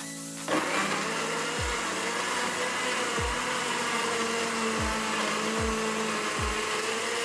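Kitchen blender starting about half a second in and then running steadily, puréeing onions, garlic, thyme, pepper and vinegar into a wet seasoning, with a wavering motor whine.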